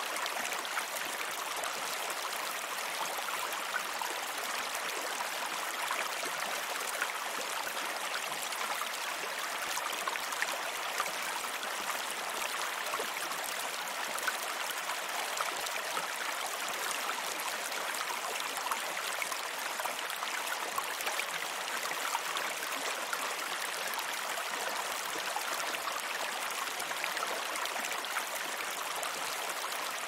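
Running water trickling and splashing steadily, with fine droplet ticks in it and no change in level.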